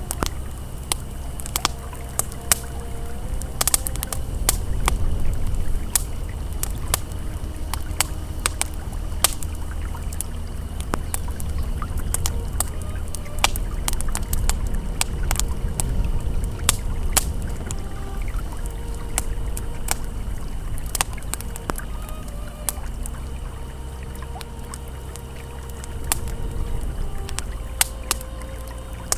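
Campfire crackling with frequent sharp pops over the steady low rush of a flowing river.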